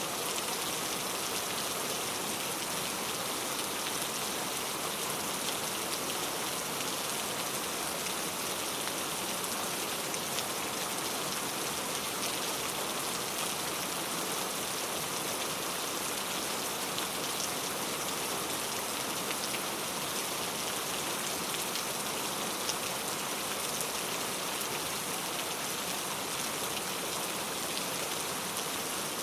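Heavy rain falling steadily: a dense, even hiss with faint scattered sharper drop hits.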